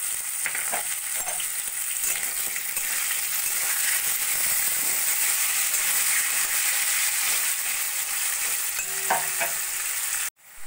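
Potato cubes sizzling as they fry in hot oil in a metal kadai, with a metal spatula scraping against the pan now and then as they are stirred. The sizzle cuts off suddenly near the end.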